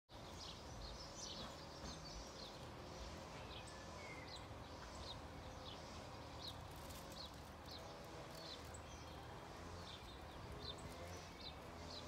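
Birds chirping in a garden, short high notes about twice a second, over a faint steady low rumble of background noise.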